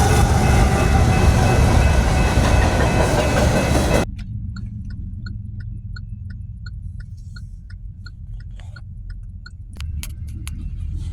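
Freight train passing close by, a loud rumble and rail noise that cuts off abruptly about four seconds in. After that there is a quieter low rumble with a faint high ding repeating evenly about three times a second, and a few sharp clicks near the end.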